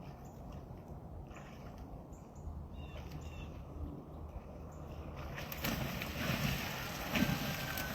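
Wind buffeting the microphone, growing stronger about five and a half seconds in, with a few faint bird chirps in the first half.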